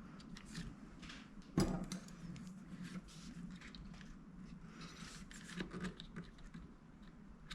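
Faint clicks, taps and rustles of hands fitting a laptop's cooling fan and its small power cable back into place on the board, with one sharper knock about one and a half seconds in.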